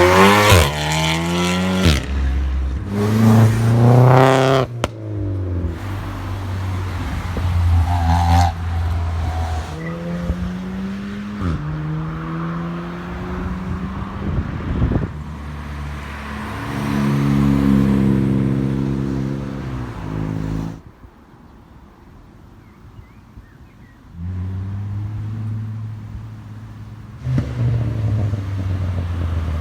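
Performance cars accelerating hard past one after another, engines revving up through the gears, with a sharp crack just after the second hard run. Further cars drive by more gently, with a short lull about two-thirds of the way through before more engines come in.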